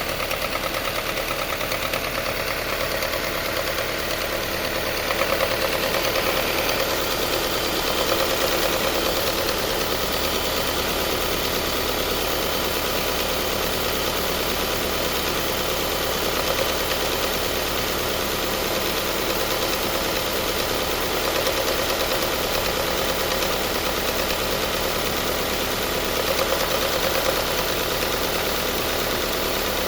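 Subaru Forester (SK) CB18 1.8-litre turbocharged boxer four running warm, likely at idle, with a loud abnormal noise and a constant tappet-like ticking that never goes away. The owner takes it as a sign the engine has failed. The sound swells briefly louder a few times.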